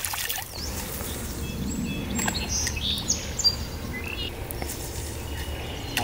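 Songbirds chirping: a few short high calls and quick falling whistles through the middle, over a steady low rumble.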